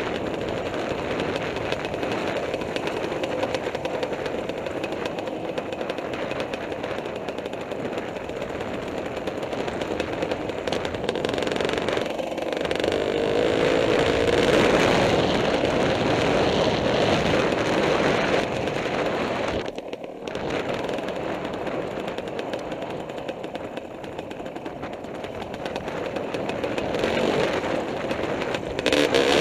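Kawasaki KDX 220R two-stroke single-cylinder dirt bike engine running under constantly changing throttle, its pitch rising and falling, with a rapid crackle throughout and a brief drop in level about twenty seconds in.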